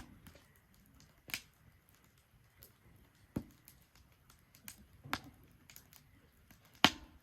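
Wood fire burning in a Solo Stove Ranger fire pit, crackling with a handful of sharp, irregular pops, the loudest near the end.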